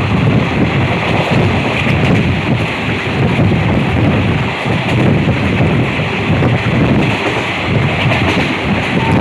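Passenger train running at speed, heard from on board, with a loud, steady rumble of the carriage and wheels. Wind buffets the microphone in uneven gusts.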